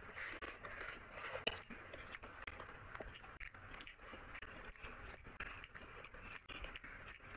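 A person chewing a mouthful of rice and curry eaten by hand, with many small wet mouth clicks and smacks, loudest in the first second and a half.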